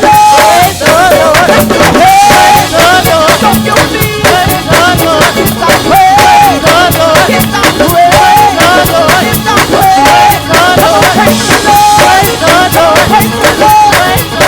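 Live gospel band playing a loud up-tempo groove: a drum kit driving a fast beat under a short melodic phrase that repeats about every two seconds.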